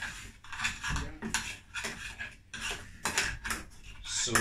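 A utensil scraping around a pot while stirring garlic, in repeated short strokes about two a second.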